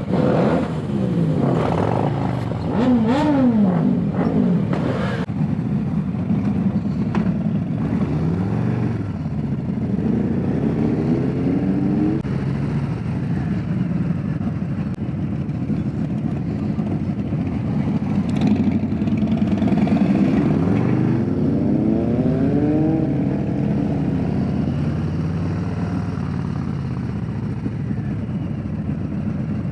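Motorcycle engines accelerating while riding in a group. The engine pitch climbs and drops with each gear change, several times over.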